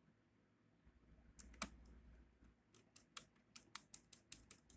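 Screwdriver tightening the screws of a laptop's case: near silence at first, then a few light clicks and, from about halfway through, a steady run of sharp clicks about four a second.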